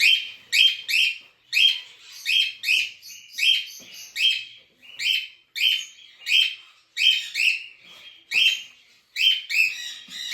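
A parrot calling over and over in short, sharp chirps, about two a second.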